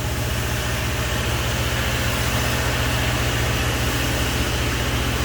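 Boom lift's engine running steadily, a low even hum with a fast regular pulse over a broad hiss.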